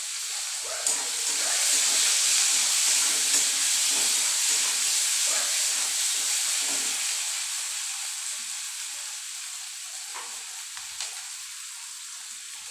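Onions, tomatoes and green chillies sizzling in hot oil in a metal kadai, with a spatula scraping the pan as they are stirred. The sizzle is loudest a couple of seconds in and slowly dies down.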